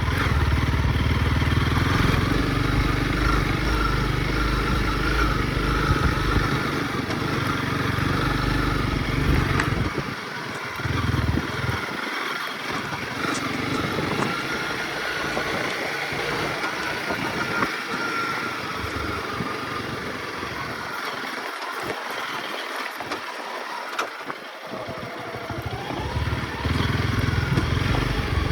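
Honda CRF motorcycle engine running as the bike is ridden, its note wavering slightly. Heavy wind rumble on the microphone eases off through the middle and returns near the end.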